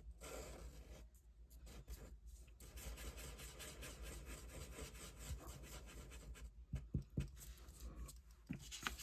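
Faint rubbing and scratching on paper, with a few light taps about seven seconds in and again near the end.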